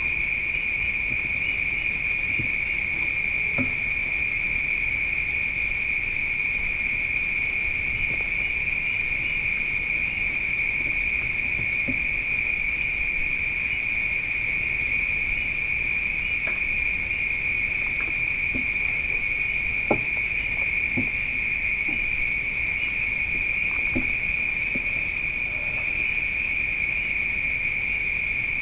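Steady chorus of crickets: a continuous high trill at two pitches, with a few faint ticks and knocks, the sharpest one about two-thirds of the way through.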